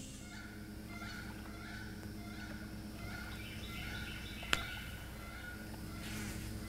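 Birds calling in short repeated chirps over a steady low hum, with one sharp click about four and a half seconds in.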